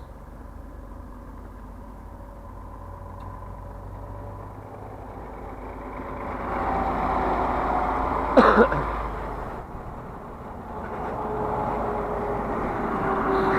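A car driving, heard from inside the cabin: steady engine and road noise that grows louder about six seconds in. A short, sharp, loud sound comes a little after eight seconds, then the noise eases and builds again toward the end.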